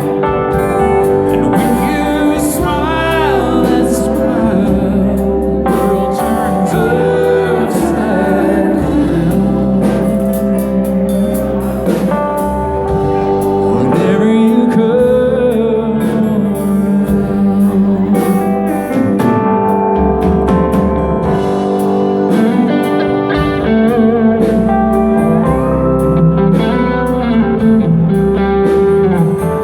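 Live band playing a country-rock song with a singer, electric and slide guitar, bass and drums, heard through loud amplification in a large room.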